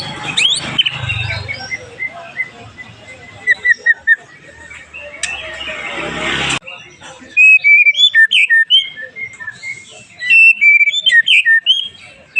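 White-rumped shama (murai batu) singing. For the first half its scattered whistled notes sit over a background hiss; about halfway through this cuts suddenly to loud, clear, rapid whistled phrases that leap up and down in pitch.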